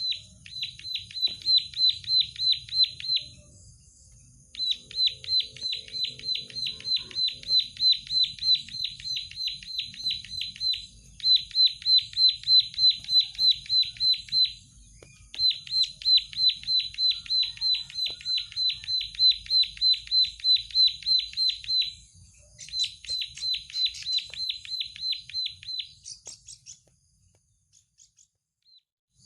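Plain prinia singing: bouts of a rapid, even string of sharp repeated notes, about five a second, each bout running several seconds with short pauses between. The song stops near the end.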